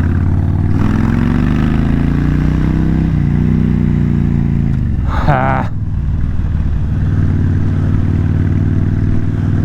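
Kawasaki VN 1600 Mean Streak V-twin with Vance and Hines exhaust pipes accelerating on the highway. Its pitch climbs, drops at a gear change about three seconds in, climbs again, then drops and holds at a steady cruise. A brief higher-pitched sound comes about five seconds in.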